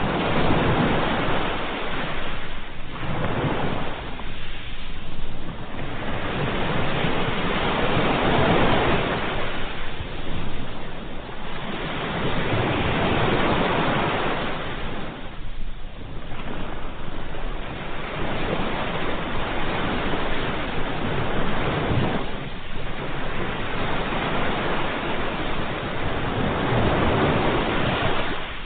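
Ocean waves breaking and washing on a shore, a continuous rushing hiss that swells and ebbs every few seconds.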